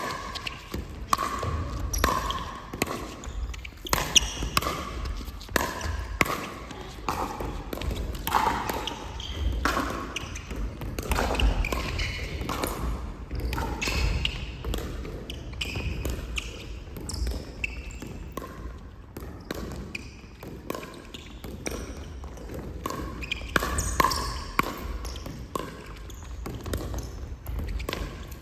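Pickleball play: repeated sharp pops of paddles striking a hollow plastic ball, and the ball bouncing, at irregular intervals.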